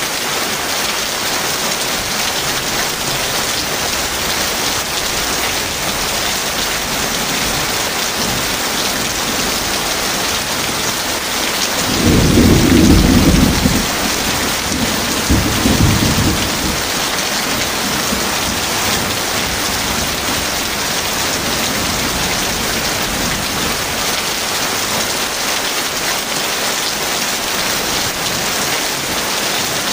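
Heavy rain falling steadily, with a thunderclap about twelve seconds in that rumbles for about two seconds, followed by a second, shorter rumble.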